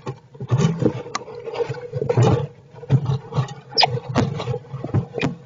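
Squirrels stirring in their nest bedding close to the microphone: irregular rustles, scratches and soft knocks, with a faint steady hum underneath.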